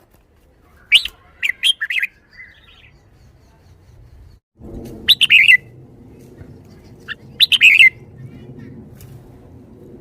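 Red-whiskered bulbul singing three short bursts of quick, bubbling notes, about a second in, around five seconds and just before eight seconds, in the song style its keepers call 'bottle-shaking'.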